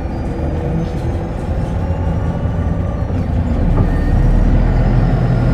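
A city bus's engine and road noise heard from inside the cabin while it is running: a steady low drone that grows louder about three and a half seconds in as the bus picks up speed.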